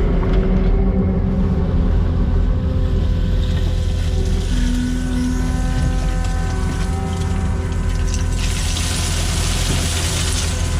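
Diesel engine of a construction machine running steadily under load, with a deep low rumble and steady whining tones above it. A high hiss joins in near the end.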